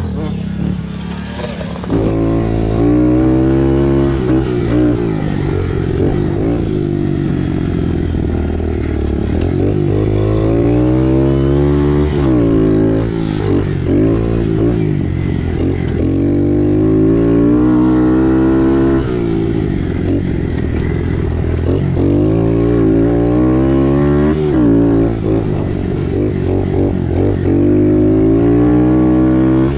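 Kawasaki KX65 two-stroke motocross bike engine revving hard and backing off over and over, its pitch climbing and dropping every few seconds as the rider works the throttle and gears.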